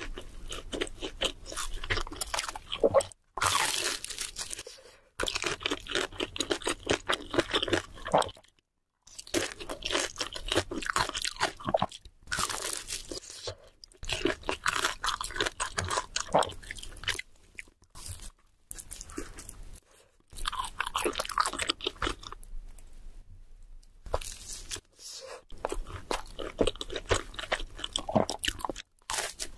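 Close-miked eating: crunching bites and chewing of crisp fried food, in stretches of a few seconds that cut off abruptly and start again.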